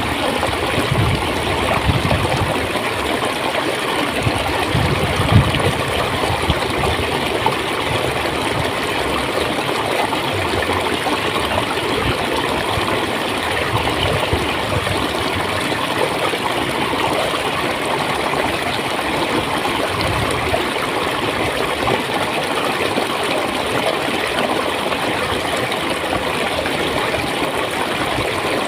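Clear water flowing steadily with a continuous gurgle and occasional deeper gurgling pulses.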